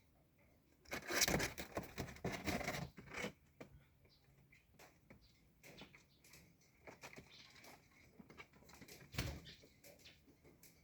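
Pigeons stirring in their colony pen: a loud burst of rapid rustling about a second in that lasts some two seconds, and a shorter one near the end, with faint scattered bird sounds between.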